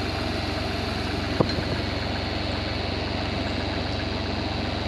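Engine of the hauling vehicle idling steadily, with a single sharp knock about a second and a half in.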